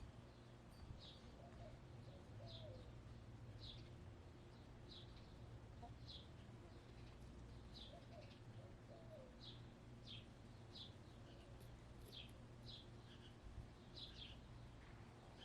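Faint, repeated short high chirps of a small wild bird, roughly one to two a second, with soft low murmurs from hens now and then.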